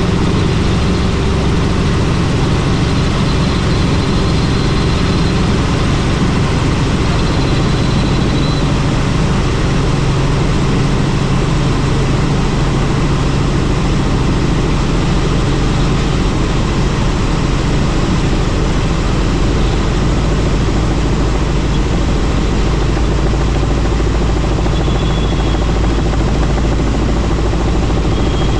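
Helicopter in flight: steady, unbroken rotor and engine noise with a low hum underneath.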